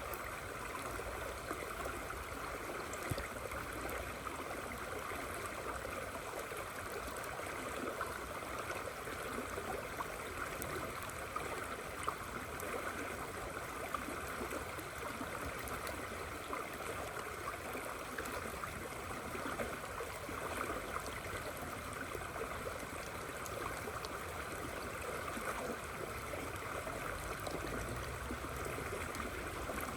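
A river flowing steadily, with rain falling, the raindrops heard as scattered light ticks over the rush of the water.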